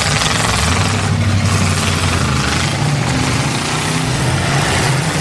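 Engines of several demolition derby cars running and revving together, a loud steady din with the engine pitch rising and falling.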